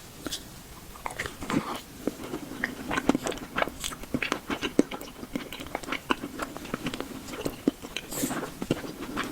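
Close-miked ASMR eating sounds: a person biting and chewing boba, a rapid, irregular run of wet clicks and crunches, with a short hissing sound near the end.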